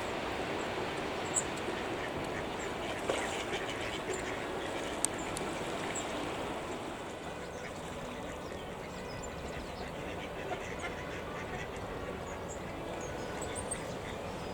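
A flock of waterfowl, mostly ducks, calling steadily on a loch: a dense chatter of quacks and calls, with small birds' high chirps scattered over it.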